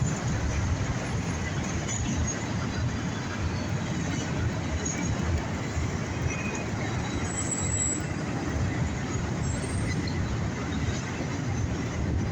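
Empty autorack freight cars rolling past at close range: a steady rumble of steel wheels on the rails, unchanging in level.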